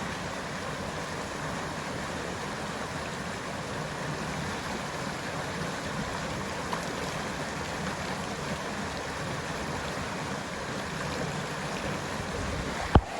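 Creek water running steadily, with a single sharp knock near the end.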